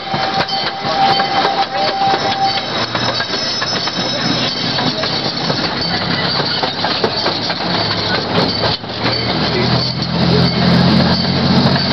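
Miniature train's open passenger cars rattling and clacking along the track, with a steady high squeal for the first couple of seconds and a low engine drone that grows louder near the end.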